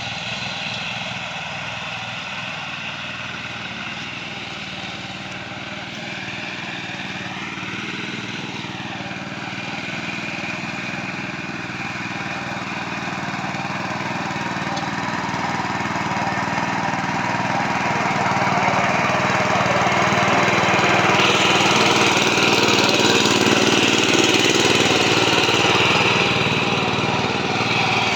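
10 HP Kirloskar single-cylinder diesel engine of a mini tractor running steadily. It grows gradually louder through the second half.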